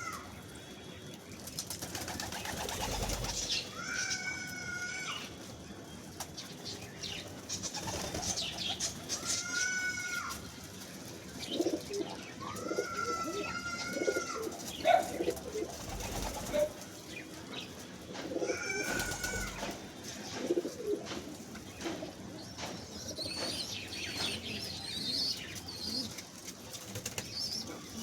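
Several birds calling: drawn-out whistled calls about a second long repeat every few seconds, among shorter, lower notes, with high chirping near the end.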